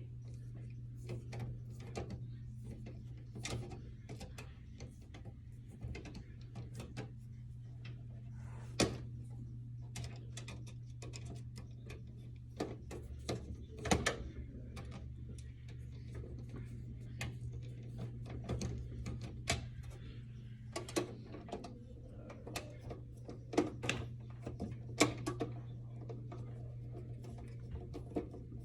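Scattered clicks, taps and knocks of a screwdriver, screws and metal parts being handled while a desktop computer case is taken apart, over a steady low hum.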